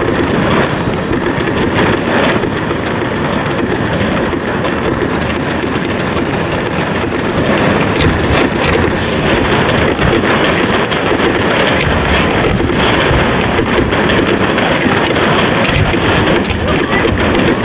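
Fireworks going off in rapid succession: a continuous barrage of bangs and crackles with no gaps.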